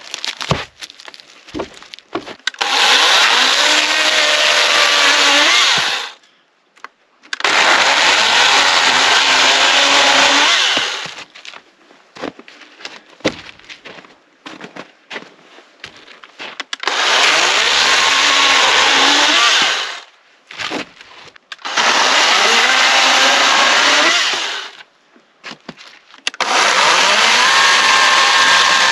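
A handheld power tool working wood, run in five bursts of three to four seconds each. Its motor pitch sags and wavers under load, and each burst stops abruptly. Scattered knocks and clicks fall between the bursts.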